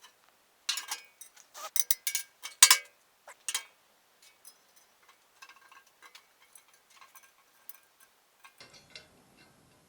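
Steel pieces clanking against each other: a handful of sharp, ringing knocks in the first few seconds, then lighter scattered clinks and ticks. A faint low hum comes in near the end.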